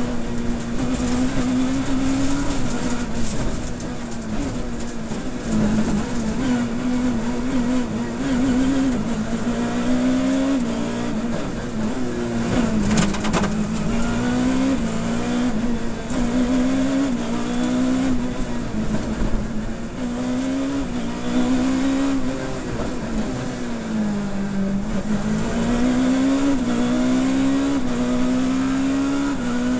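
Rally car engine heard from inside the cabin, driven hard through a stage: the engine note climbs and drops again and again with the gear changes and lifts off the throttle. There is a sharp crack about 13 seconds in.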